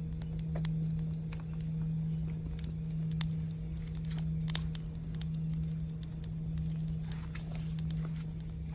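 Campfire crackling with scattered sharp pops, the loudest about four and a half seconds in, over the steady low hum of a singing bowl whose tone swells and fades slowly.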